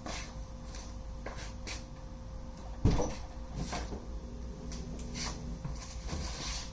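Car door and cabin handling sounds: a series of clicks and knocks, with one louder thump about three seconds in, over a faint steady hum.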